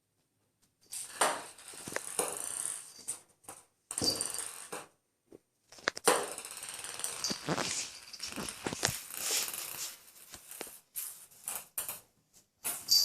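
Ping-pong ball batted by a cat, rattling and tapping rapidly across a hard surface in several bursts, with a few separate taps near the end.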